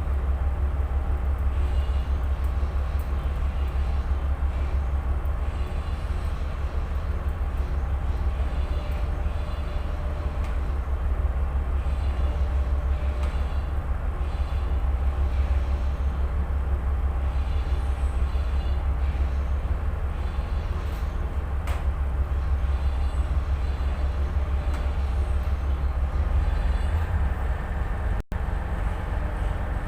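Tugboat's diesel engine running, a steady low drone heard aboard, with a brief break near the end.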